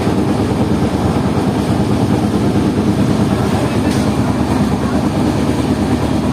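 Train running, a steady loud noise without breaks.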